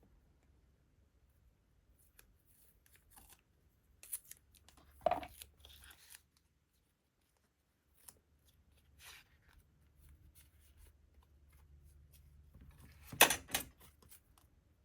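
Quiet paper-crafting sounds as washi tape and paper are handled: scattered light rustles, with two louder short rasping sounds, one about five seconds in and one near the end, as the tape is torn or cut.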